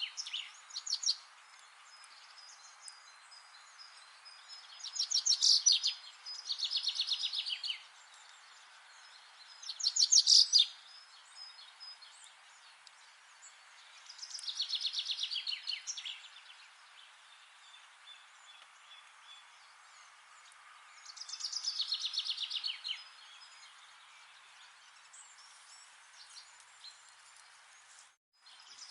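Songbird singing short, rapid trilled phrases that fall in pitch, about six of them a few seconds apart, over a steady background hiss. The sound cuts out for a moment near the end.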